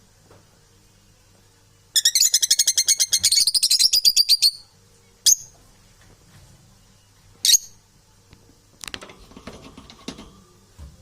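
Pet parrot calling: a fast, shrill run of chirps lasting about two and a half seconds, then two short single squawks. Softer chatter follows near the end.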